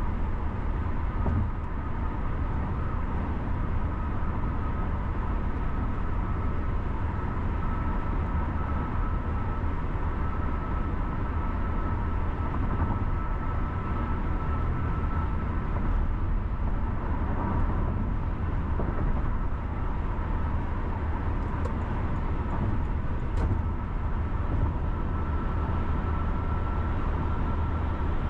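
Car driving on a city road: a steady low rumble of engine and tyres on the road surface, with a faint steady whine above it.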